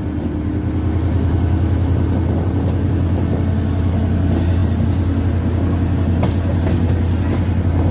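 Passenger train running, heard from the side of a coach: a steady low rumble of wheels on the rails. A brief high squeal comes about halfway through, and a single click near the end.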